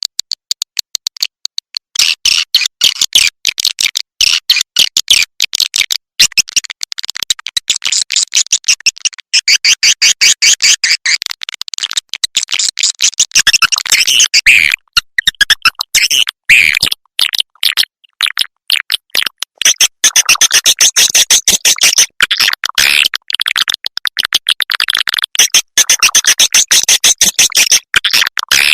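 Swiftlet lure-call recording, the kind played from bird-house tweeters to attract swiftlets: fast trains of high-pitched swiftlet chirps and clicks, with short breaks between bursts.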